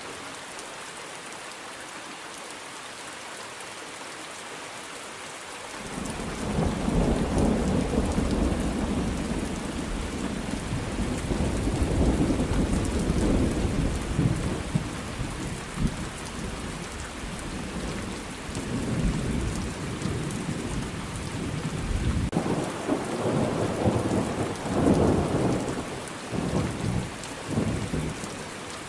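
Steady rain falling, with a long rolling rumble of thunder that starts about six seconds in, followed by a second, choppier bout of thunder rumbling near the end.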